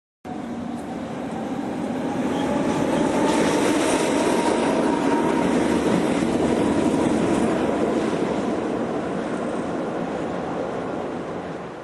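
Green electric locomotive passing close on the tracks, a steady rumble of wheels on rails that builds over the first few seconds and fades away near the end.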